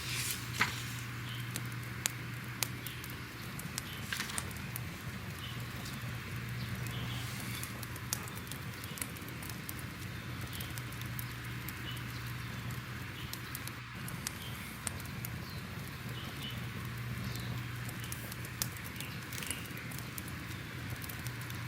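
Fire crackling: irregular sharp pops and snaps over a steady hiss and a low, even rumble.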